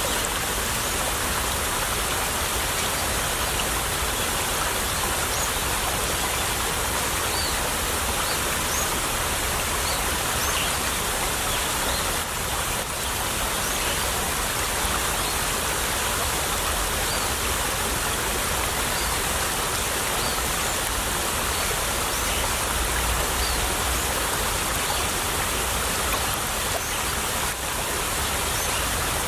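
Stream water running steadily, a continuous rush of flowing water with small high trickling splashes throughout.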